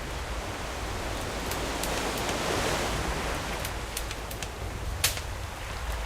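Sea waves washing onto the shore, one wave swelling and drawing back over a few seconds, with a campfire crackling and one sharp pop near the end.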